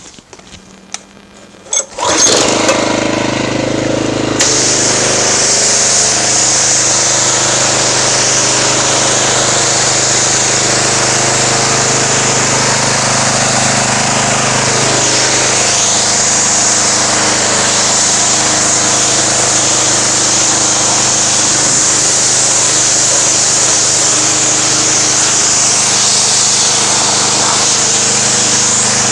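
Pressure washer starting about two seconds in and running with a steady hum. A couple of seconds later the spray gun opens and a loud, steady hiss of the water jet joins it, rinsing the car-wash soap off the car.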